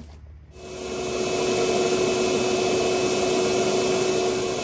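Vacuum cleaner switched on about half a second in, its motor spinning up over about a second to a steady whine with one constant tone, being used to suck up broken windshield glass.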